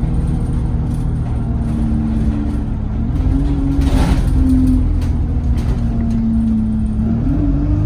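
ADL Enviro 200 single-deck bus's diesel engine running under way, heard from inside the saloon, its note dipping and then rising again as the driver works the throttle. A brief hiss about four seconds in.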